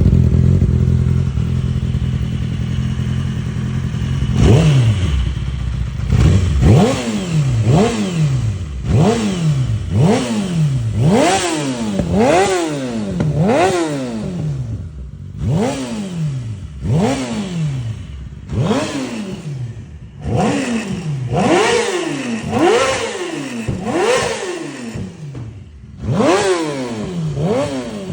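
2007 Yamaha YZF-R6's 600 cc inline-four engine running steadily, then blipped over and over, roughly once a second: each rev rises sharply and falls back. It runs clean with no ticks or knocks, a sign of a healthy engine.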